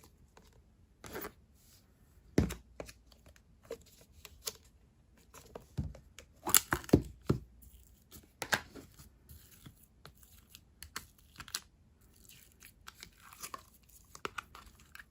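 Thick, stretchy slime being worked by hand: pulled, folded and inflated, giving irregular sticky pops and tearing crackles. The loudest cluster of pops comes about six to seven seconds in.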